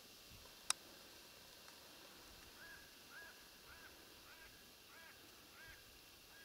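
A faint bird call repeated as a run of about seven short, arched notes, roughly two a second, starting about two and a half seconds in. A single sharp click comes about a second in.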